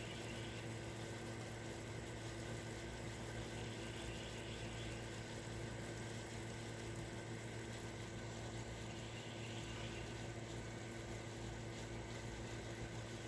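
Steady outdoor background: a low, constant hum under an even hiss, with faint high buzzing patches coming back every four to five seconds.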